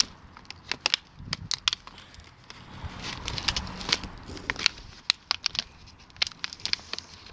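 Crushed plastic bottle crackling and crinkling as it is handled and pushed into place on a bicycle, a scatter of sharp, irregular clicks.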